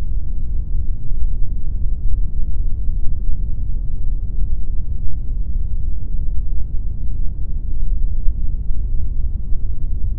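Steady pink noise: an even, unbroken hiss-like rumble weighted toward the low end, with no changes or events.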